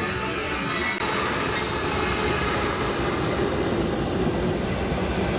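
BNSF freight train passing close by, its wheels running steadily on the rails.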